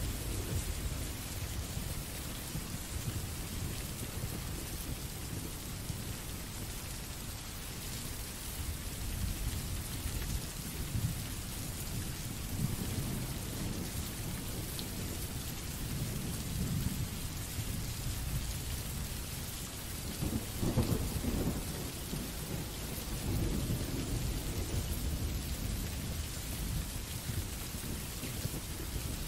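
Recorded rain sound effect: steady rain with a low rumble underneath that swells louder about two-thirds of the way through.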